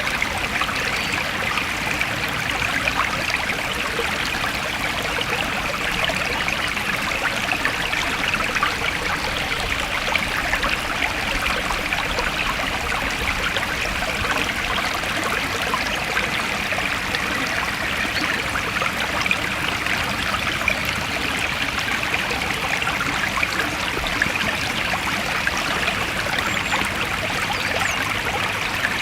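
Forest stream flowing steadily, a continuous splashing and trickling of water over stones.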